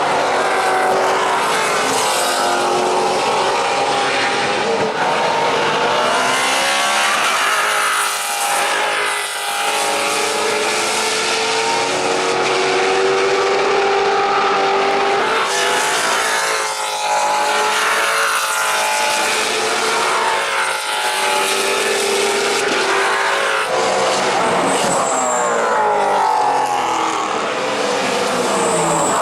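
Several Maserati GranTurismo MC Trofeo race cars with V8 engines running hard at racing speed. The engine notes overlap, rising under acceleration and falling on gear changes and as cars go by.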